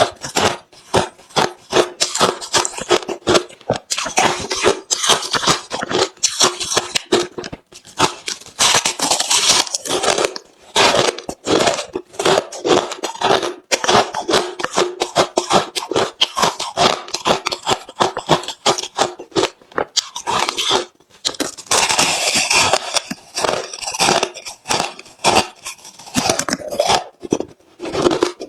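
Close-miked crunching of hard refrozen crushed ice being bitten and chewed: a fast, continuous run of sharp crunches broken by a few brief pauses.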